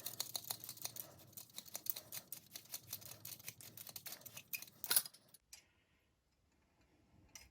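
Small metal parts of a pneumatic flanging tool clicking and rattling as it is taken apart by hand, with a sharper click about five seconds in.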